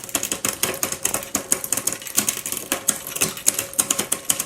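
Marin Stenson road bike's chain and rear cassette clicking rapidly and evenly as the cranks are turned by hand. The chain is ticking on the next cog while the rear derailleur's barrel adjuster is eased out: the gears are close to, but not yet fully, indexed.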